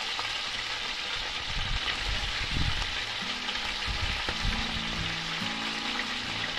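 Sliced potatoes sizzling steadily as they fry in oil in a pan over a wood fire, turned now and then with a metal spatula. Low background music notes come in about halfway through.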